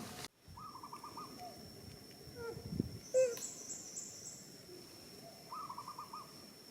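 Animal calls: a short call of about five quick notes, heard twice, about half a second in and again near the end. A louder, brief squeak comes about three seconds in.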